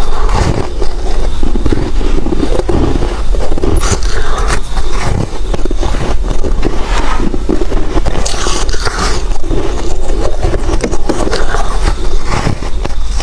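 Close-miked biting and chewing of soft white ice chunks: continuous irregular crunching and crackling, with squeaky scraping as the frosty ice gives way.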